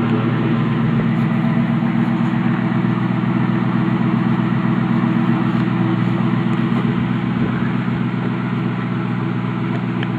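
A 1999 Ford Mustang GT's 4.6-litre V8 idling steadily through its stock exhaust.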